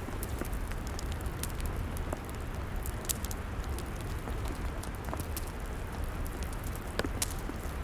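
Log fire crackling: irregular sharp pops and snaps over a low steady rumble, with a louder pop about three seconds in and two more near the end.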